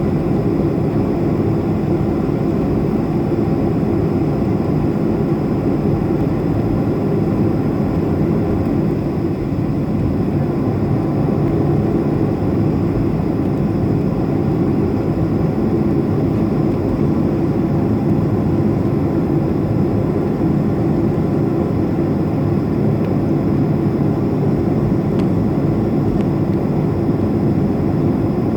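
Steady engine noise of a Boeing 737-500's CFM56 jet engines running at low power after landing, heard inside the cabin as a constant low rumble with a faint high whine.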